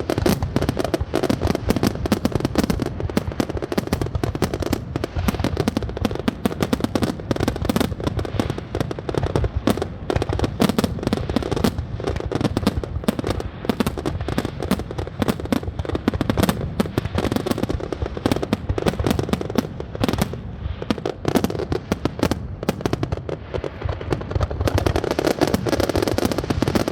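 Fireworks display: dense, continuous rapid crackling and popping with deeper booms underneath, without a break until it cuts off at the end.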